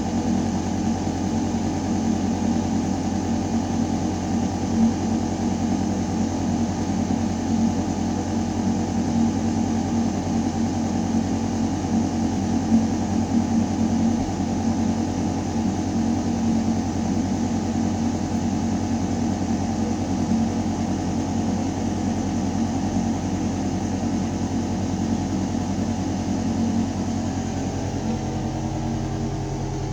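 Building ventilation system running in a metal duct: a steady low hum of several tones over the rush of moving air. The hum shifts slightly near the end.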